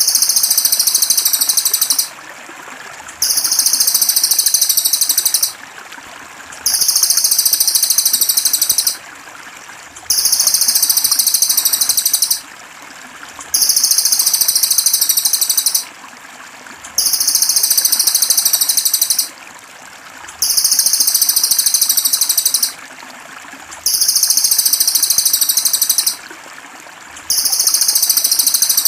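A small songbird's rapid, high-pitched pulsing trill, given in bursts about two seconds long and repeated regularly every three to four seconds, over the steady trickle of running water.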